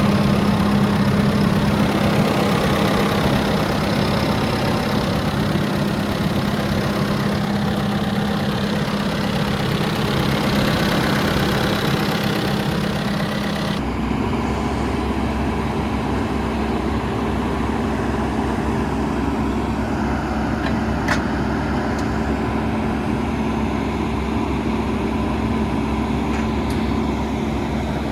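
Deere 410L loader backhoe's 4.5-litre turbo diesel engine idling steadily. About halfway through the sound changes abruptly and becomes duller, with less of its upper hiss.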